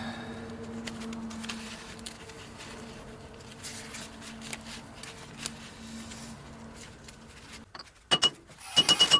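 Metal parts of a manure spreader's ratchet gear mechanism being handled and fitted: a steady low hum with small scattered clicks. Near the end, a fast, loud, evenly repeating metallic clicking with a ringing tone starts abruptly.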